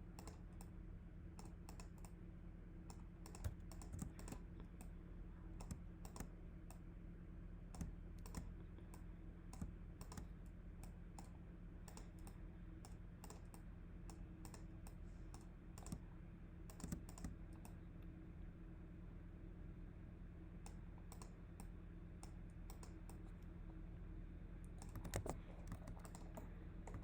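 Computer keyboard keys and mouse buttons clicking in scattered, irregular taps, a few louder than the rest, over a steady low electrical hum.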